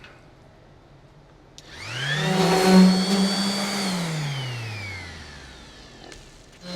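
Handheld electric grinder clicked on about a second and a half in. It spins up to speed, runs for a moment, then is switched off and winds down over a couple of seconds, and starts again right at the end. It is the tool for cleaning up the edge of an aluminum fuel tank before welding.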